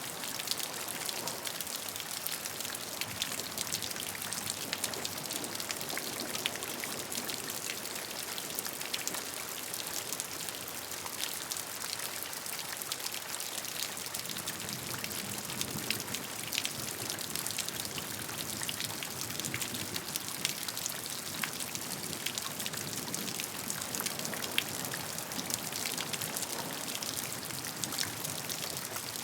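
Steady rain, with many separate raindrops pattering and ticking on a surface.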